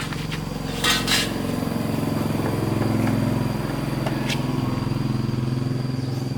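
An engine running steadily, its pitch rising a little over the first couple of seconds, with two sharp clicks about a second in.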